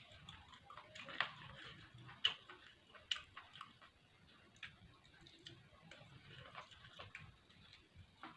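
Close-miked eating: a person chewing, with irregular wet clicks and smacks of the mouth and a few sharper clicks a little over one, two and three seconds in.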